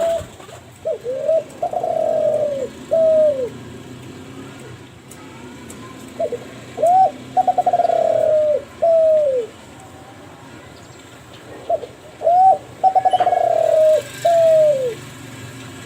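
Kelantan spotted dove (derkuku) cooing: three song phrases a few seconds apart. Each phrase has short rising notes, a longer wavering coo and a falling final note.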